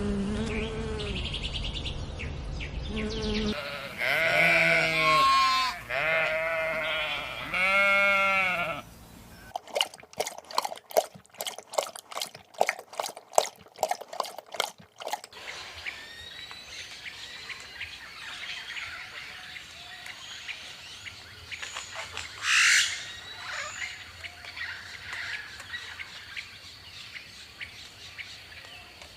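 A series of loud, arched bleating calls from farm animals, then a run of sharp rapid clicks for several seconds, then birds chirping, with one brief loud chirp about two-thirds of the way through.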